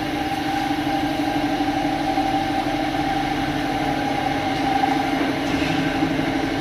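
Mahindra Thar's engine, fitted with a new turbocharger, idling steadily.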